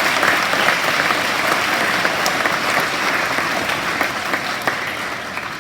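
Audience of schoolchildren clapping in a hall, applause that slowly dies away toward the end.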